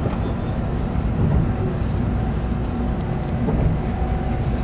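Tokaido Shinkansen train running at speed, heard from inside the passenger car: a steady, even low rumble of running noise.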